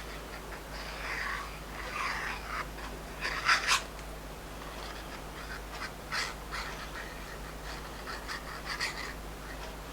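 Paper and craft supplies being handled on a desk: light rustles and taps, with a few sharper clicks about three and a half, six and nine seconds in.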